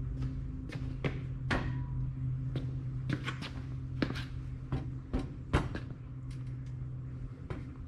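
Steel angle-iron frame parts knocking and clanking irregularly as they are handled and set together, a dozen or so sharp knocks, over a steady low hum.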